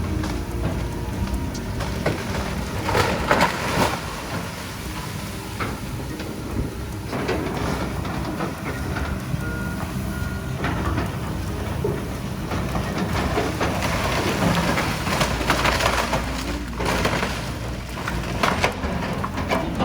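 Diesel excavator engine running steadily as its bucket knocks down a walkway roof, with loud crashes of breaking roofing material a few seconds in and again in the second half. A reversing beeper sounds briefly about halfway through.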